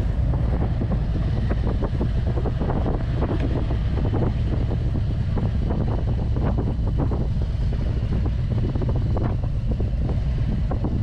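Harley-Davidson V-twin motorcycle engine running at low road speed, a steady low rumble heard from a camera mounted on the bike, with a little wind on the microphone.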